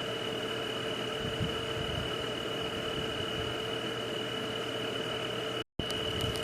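Steady night-time nature ambience: an unbroken chorus holding one high, even pitch and a lower one over a soft hiss. It drops out to silence for a split second near the end.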